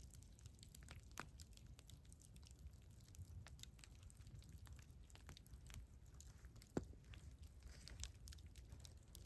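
Campfire crackling faintly: scattered small snaps and pops of burning wood, with one louder pop about seven seconds in, over a low rumble.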